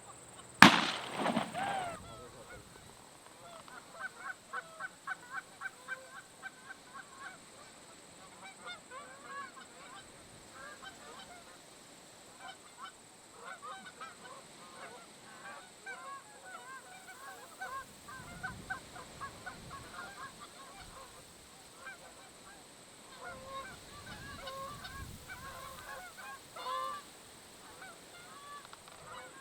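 One loud shotgun shot about half a second in, then geese honking on and off, with a quick run of honks from about four to seven seconds in.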